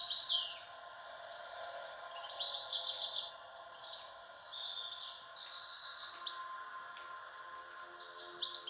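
Birds chirping and trilling in quick, repeated chirps, over faint steady tones beneath.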